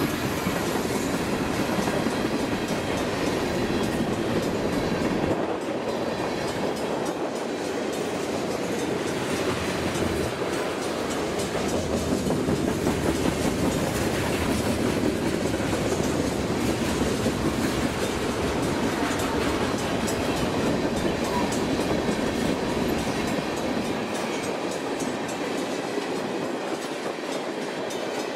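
Freight train's cars rolling past close by: a steady rumble and clatter of steel wheels on the rails, with clickety-clack over the joints. The diesel locomotives' low rumble is heard at first and drops away about five seconds in as the cars take over.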